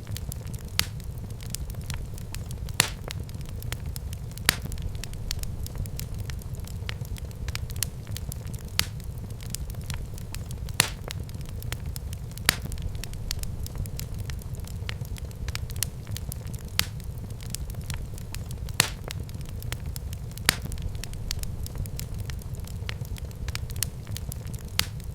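Fire in a fireplace crackling steadily over a low rumble, with frequent small snaps and a louder pop every two seconds or so.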